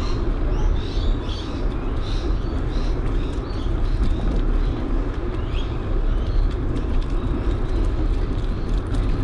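Wind rumbling on the microphone of a moving bicycle, with the steady noise of riding. Birds chirp a few times in the first two seconds and once more about halfway through.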